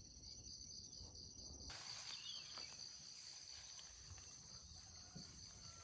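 Faint chorus of insects such as crickets: a steady high-pitched trill, with an evenly pulsing call in the first second or two.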